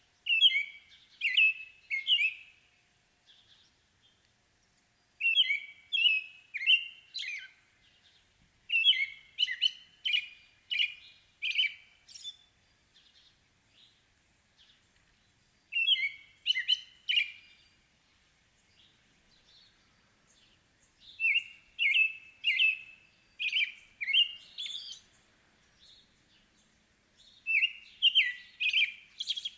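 A songbird singing: phrases of three to five clear, quickly repeated notes, each phrase lasting one to three seconds, with pauses of a few seconds between phrases.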